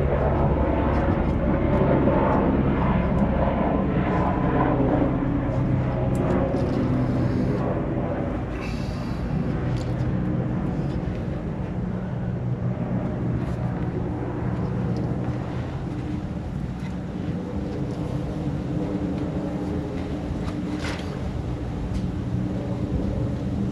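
A steady mechanical drone from a running motor or engine, with a few light clicks over it.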